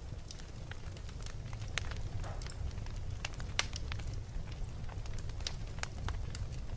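Wood fire burning in a fireplace: a steady low rumble of the flames with irregular sharp crackles and pops, one louder pop about three and a half seconds in.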